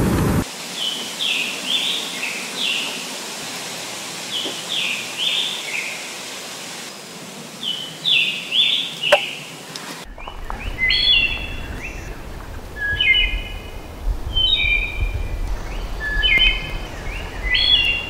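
A scarlet tanager singing its short, burry, robin-like phrases in three bursts. About ten seconds in this gives way to a wood thrush singing clear, flute-like phrases over a low rumble.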